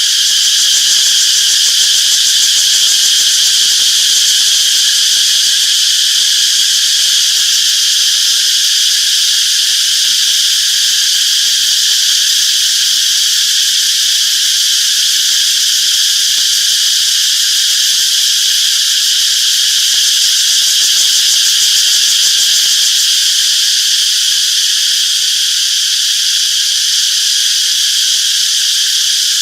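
A dense chorus of cicadas droning steadily at a high pitch, without a break.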